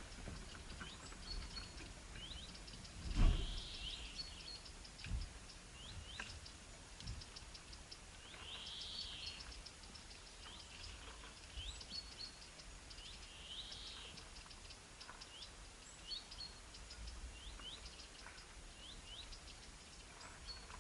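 Small birds chirping: short high chirps repeated every second or so, with a few fuller calls. A few dull knocks sound among them, the loudest about three seconds in.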